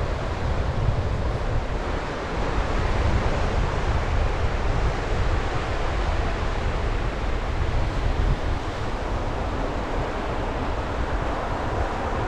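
Sea waves washing onto the shore in a steady wash, with wind rumbling on the microphone.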